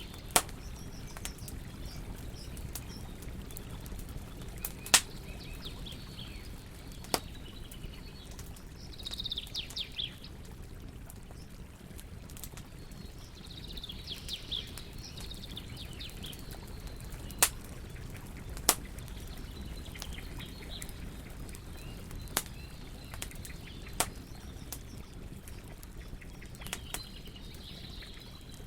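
Wood campfire burning with a steady low rumble, broken by sharp crackles and pops every few seconds. Birds chirp in short bouts about a third of the way in, around the middle and near the end.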